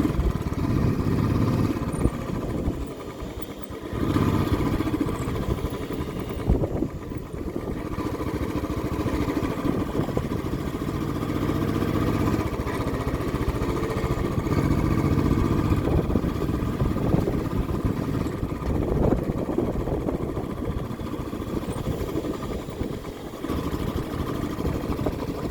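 A vehicle's engine running steadily with road noise, dropping briefly about two seconds in and then picking up again.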